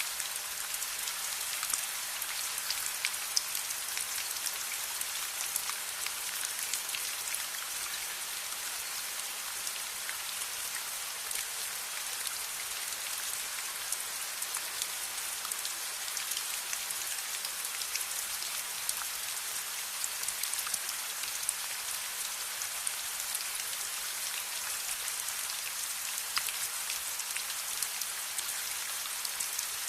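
Steady rain falling, a dense even hiss scattered with many small sharp drop ticks and pops, with a faint low steady hum underneath.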